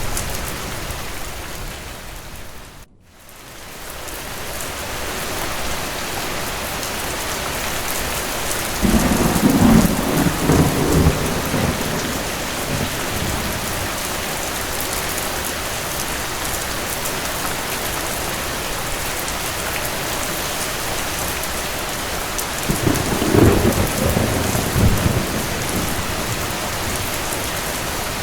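Steady rain with two low rolls of thunder, one about nine seconds in lasting a few seconds and another near twenty-three seconds in. The sound briefly fades almost out about three seconds in, then swells back.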